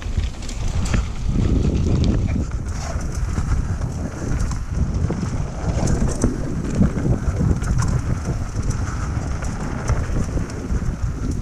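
Wind buffeting the microphone of a moving GoPro, over the steady rattle and clatter of a mountain bike rolling down a rough dirt trail.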